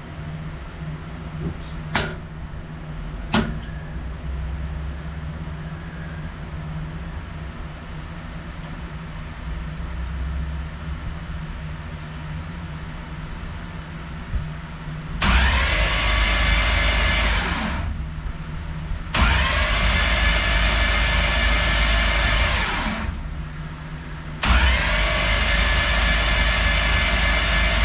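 LS V8 engine spun over by its starter motor with the spark plugs out and ignition and fuel disconnected, in three steady cranking runs of three to four seconds each, starting about halfway through: cranking to prime the oil system and build oil pressure.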